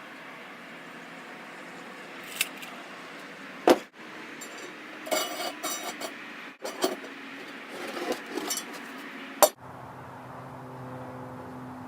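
Steel pieces clanking and knocking against each other as a welding cart frame is handled and fitted, with single sharp clanks and short rattling clusters of clinks.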